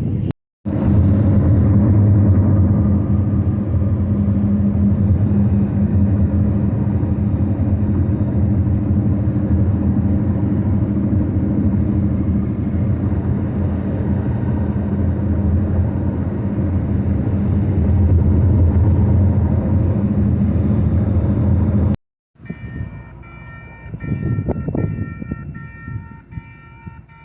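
Freight train passing with a loud, steady low rumble of rolling cars and running engines. After a break about 22 seconds in, it gives way to a quieter stretch with a repeating, broken high-pitched ringing tone.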